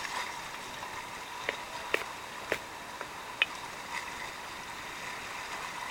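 Steady rush of river water, with four sharp knocks in the middle.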